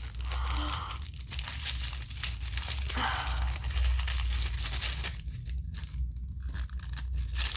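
Plastic packaging being torn open and crinkled by hand: irregular crackling and ripping, over a low steady hum.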